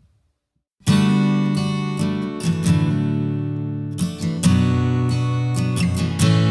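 Acoustic guitar music, strummed chords, starting abruptly about a second in after a moment of silence.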